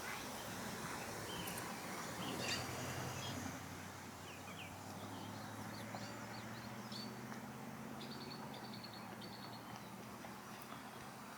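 Ospreys calling at the nest: scattered short, high chirps, with a quick run of evenly spaced notes about two-thirds of the way through, over a faint steady low hum.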